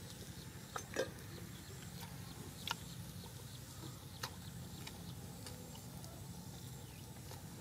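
A person chewing food with closed lips, giving several short, sharp wet mouth clicks, the loudest about a second in, over a low steady background hum.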